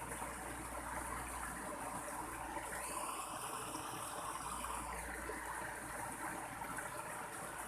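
Mountain stream water rushing steadily over rocks. A brief higher hiss passes over it about three seconds in and lasts about two seconds.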